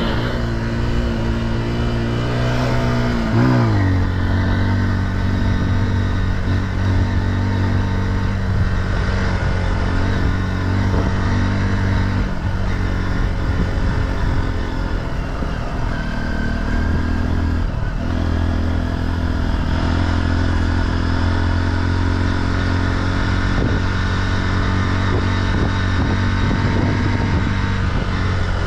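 Single-cylinder off-road engine running steadily under throttle while riding a trail, its pitch falling about three to four seconds in and briefly dropping again a little past halfway.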